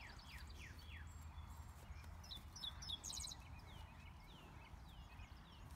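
Faint outdoor birdsong: short falling chirps repeated every half second or so, with a brief high trill about three seconds in, over a low steady rumble.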